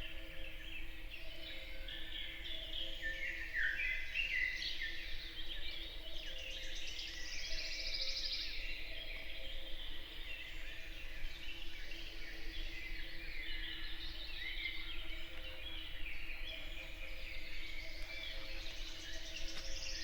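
Woodland morning chorus: many songbirds singing at once in overlapping short phrases, with a fast, shivering high trill about seven seconds in and again near the end. A faint steady low hum lies underneath.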